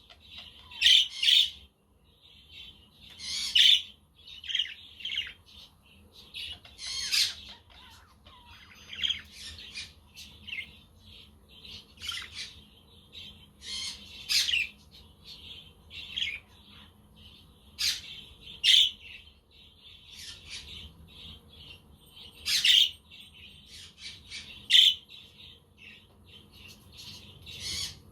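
Budgerigars chirping and squawking, with a burst of short, sharp calls every second or two and some louder squawks standing out.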